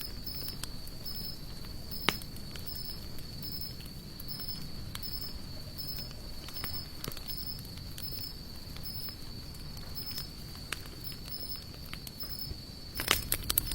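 Hardwood campfire of sawtooth oak and mixed broadleaf logs crackling with sparse pops, a sharp pop about two seconds in and a quick run of crackles near the end. Over it an insect chirps steadily, about one and a half chirps a second, above a continuous high trill.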